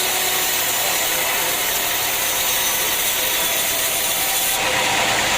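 Sawmill machinery running steadily with a dense mechanical rattle and hiss. About four and a half seconds in, the sound shifts lower and an engine comes forward.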